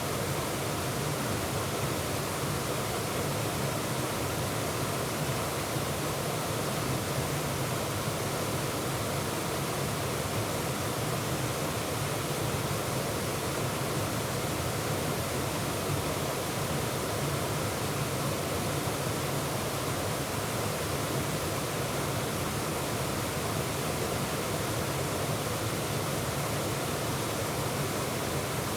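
Waterfall and white water rushing steadily, a constant full rush with no breaks or separate splashes.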